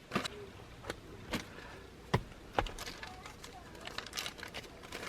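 Scattered light clicks and taps at irregular intervals, from small parts of a gauge kit being handled.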